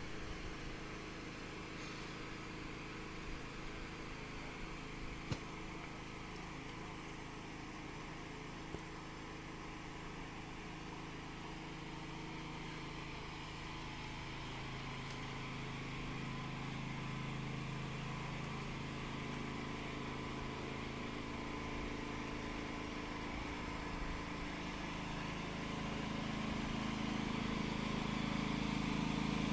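A steady mechanical hum from a running motor or engine, growing gradually louder through the second half, with a couple of faint clicks early on.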